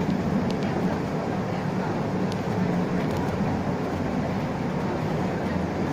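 Isuzu Erga LV290 city bus heard from inside the cabin: a steady diesel engine hum and road noise as it runs, with a few faint ticks of interior rattle.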